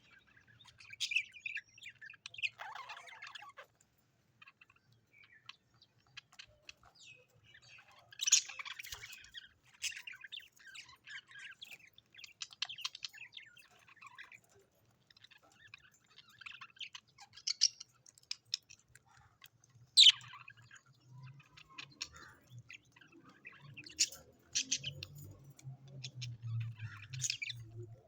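Birds chirping and chattering in short, scattered calls, with a few sharper, louder clicks or squeaks among them.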